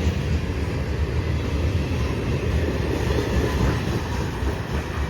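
Freight train rolling past on the rails, a steady rumble of cars and wheels that eases off slightly near the end.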